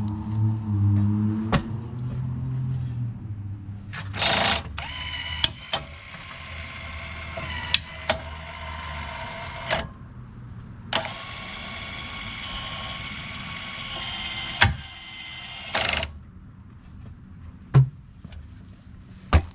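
Electric actuator motor of a John Deere 326D skid steer's powered Quick-Tach coupler running twice, each time a steady whine of about five seconds, with sharp clicks and knocks around the runs. A low hum, loudest at the start, fades away over the first few seconds.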